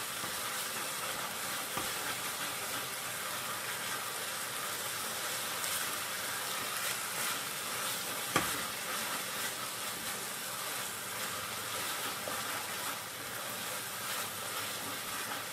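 Thick papaya halwa sizzling in ghee in a kadai as a wooden spatula stirs and scrapes it, a steady frying hiss as it cooks down to leave the sides of the pan. A single sharp knock about halfway through.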